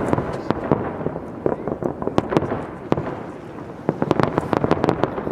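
Aerial fireworks exploding: quick volleys of sharp bangs and crackles in three or four clusters, over a steady rumble.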